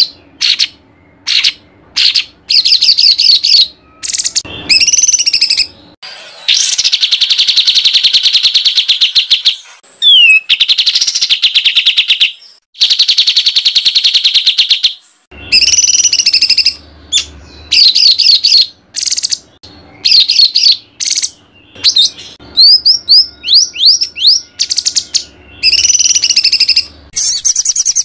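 A songbird singing loud, rapid, harsh trills and chattering phrases in bursts, the longest two to three seconds long, with short pauses between: a 'tembakan kasar' masteran tutor song of the kind played to train competition songbirds.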